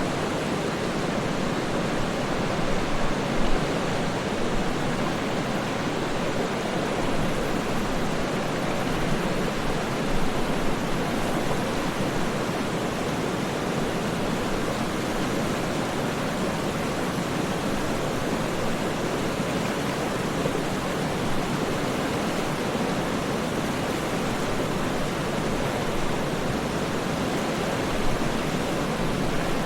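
Waterfall, a steady unbroken rush of falling water, deep and even, with a few slight swells.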